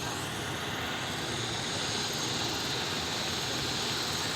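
Aircraft engine running steadily: a continuous, even drone that grows slightly louder.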